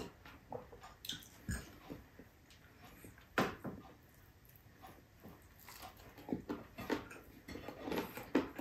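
Close-up eating sounds: wet chewing and lip smacks in a string of short, irregular sticky clicks, as soft braised pork ribs and rice are eaten by hand.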